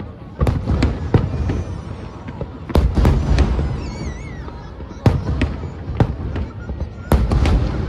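Aerial fireworks bursting: a rapid run of sharp bangs with deep rumbling booms, in heavier salvos about half a second in, near three seconds, around five seconds and again near seven seconds.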